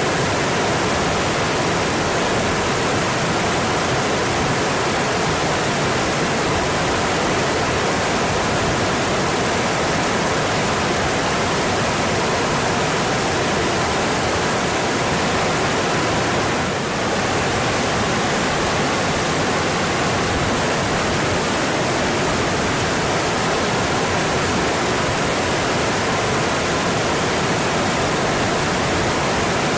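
Mountain stream water rushing and splashing over its streambed, a steady, even rush with one brief slight dip about halfway through.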